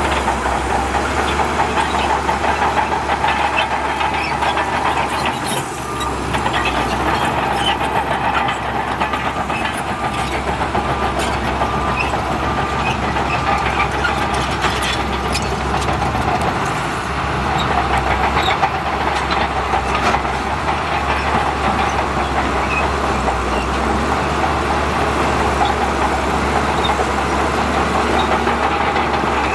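Bulldozer's diesel engine running steadily under load, with the clanking and faint squeaking of its steel crawler tracks throughout.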